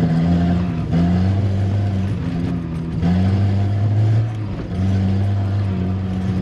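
Volvo 740 Turbo's turbocharged four-cylinder engine working hard under load on a rally run. Its pitch steps up and down every second or so, and it eases off briefly about three quarters of the way through.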